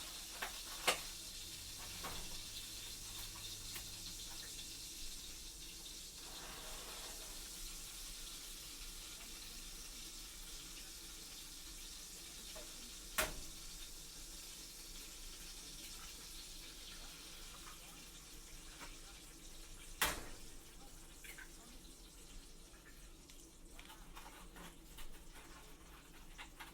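Food frying in a pan with a steady, quiet sizzle that slowly fades, broken by three sharp knocks of a utensil or pan.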